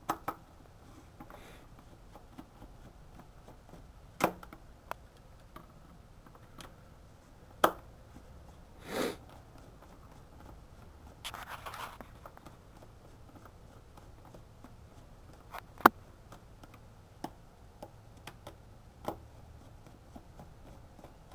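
Scattered sharp clicks and taps, the loudest about three quarters of the way through, with a short scraping stretch near the middle: a screwdriver working the screws of a motorcycle's air-filter housing cover.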